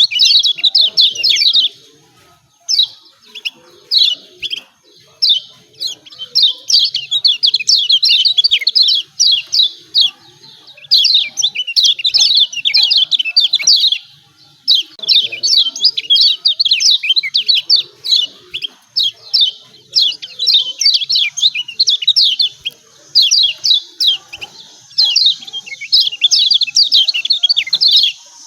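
Kecial kuning (Lombok yellow white-eye) giving rapid, excited 'ciak ciak' chirping calls in fast runs of high, downward-sliding notes, broken by brief pauses. This is the agitated calling that is used as a lure to get other white-eyes singing.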